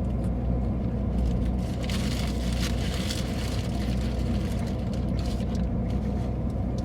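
Steady low rumble of an idling car engine, with a few faint clicks and rustles.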